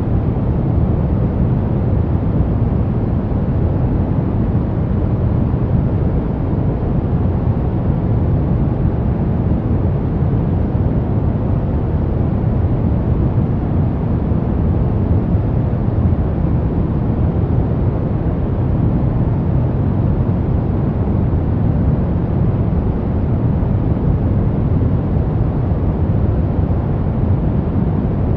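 Pink noise: a steady, even rush of noise, heaviest in the low end, with no changes.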